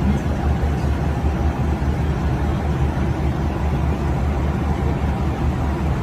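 Airliner cabin noise in flight: a steady low roar of the engines and rushing air.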